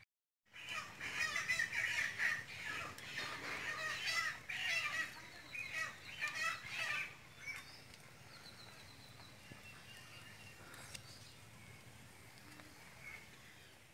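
Birds calling: many short overlapping chirps and chatter, busiest in the first half and dying down to a faint background after about eight seconds.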